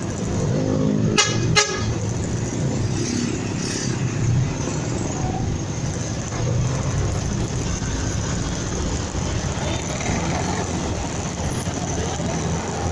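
Two short horn toots in quick succession about a second in, over the steady rumble of a motorcycle underway with road and wind noise.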